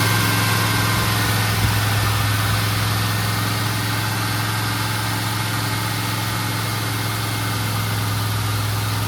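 Turbocharged Pontiac Trans Am V8 running steadily at raised revs, held there for the break-in of a freshly fitted flat-tappet camshaft.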